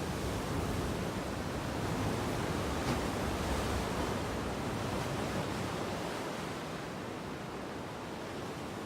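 Steady rushing of sea surf, with wind rumbling on the microphone, easing slightly near the end.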